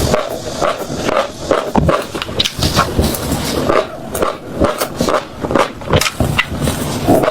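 Close-miked chewing of crunchy food: rapid, irregular crisp crunches and crackles as it is bitten and ground between the teeth.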